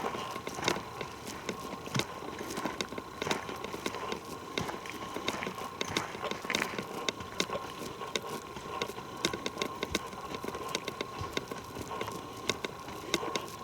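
Footsteps on a forest floor: irregular crunches and snaps of a person walking over leaf litter and twigs.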